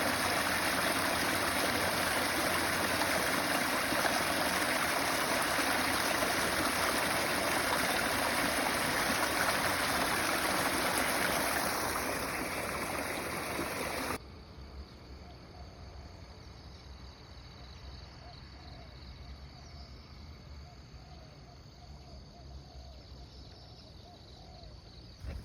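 Running water, a loud, steady rush, that cuts off abruptly about halfway through, leaving a much quieter background with a low rumble.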